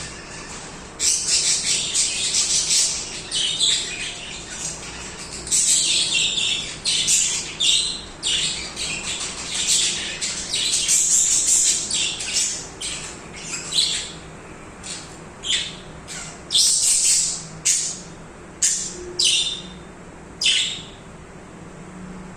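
Pet budgerigars chirping and singing in a dense run of overlapping calls, thinning after about fourteen seconds into separate short calls a second or so apart.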